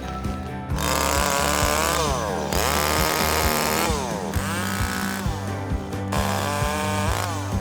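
Small handheld petrol engine, as on a brush cutter or chainsaw, revved hard four times; after each burst the pitch falls as it drops back toward idle. Background music plays throughout.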